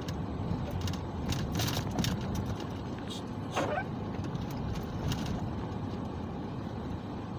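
Car driving, heard from inside the cabin: a steady low road and engine rumble with a few scattered clicks.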